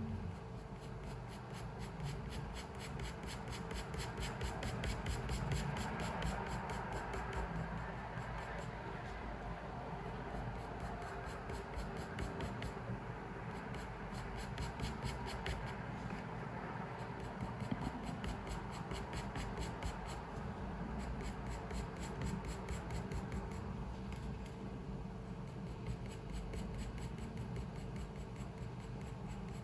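Pencil scratching and rubbing on paper in continuous drawing strokes, over a low steady hum.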